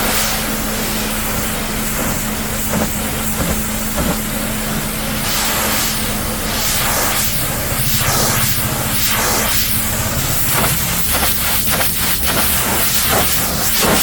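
High-pressure water jet spraying against a vehicle's body, a loud steady hiss that flutters as the spray moves in the second half, over a steady low hum.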